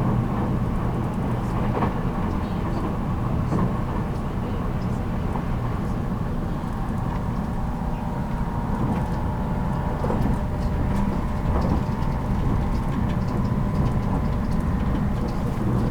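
JR Kyushu 783 series electric train running at speed, recorded inside motor car MoHa 783-13: a steady rumble of wheels on rail with faint clicks.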